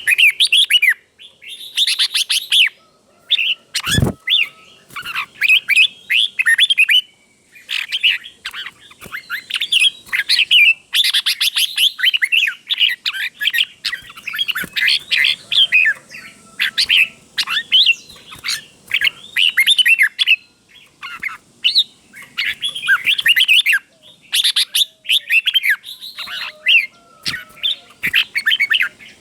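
Red-whiskered bulbul singing: quick, bright warbled phrases repeated one after another with short pauses. There is a single thump about four seconds in.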